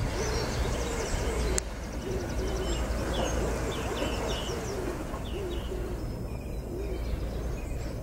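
Birds calling: a low, soft call repeated in short phrases, about two notes a second, with higher chirps from small birds between about two and five seconds in, over a steady low rumble. A click and a drop in level about one and a half seconds in.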